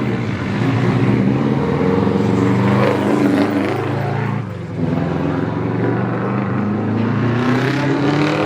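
Rally car engine running hard under load. About halfway through its note dips briefly, then it climbs steadily in pitch toward the end as the car accelerates.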